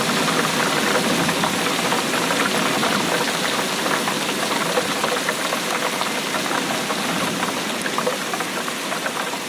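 Steady rainfall, a dense, even patter of drops that stays unchanged throughout.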